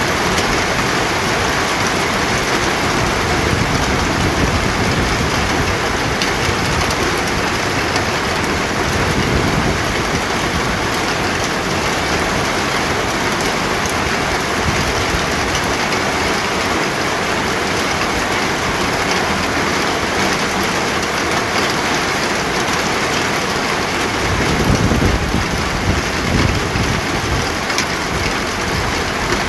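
Steady heavy rain falling, a dense even hiss, swelling briefly in the low end near the end.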